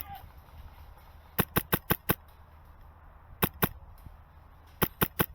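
Airsoft gun firing in quick strings of sharp shots: five in rapid succession about a second and a half in, two more around the middle, and three near the end.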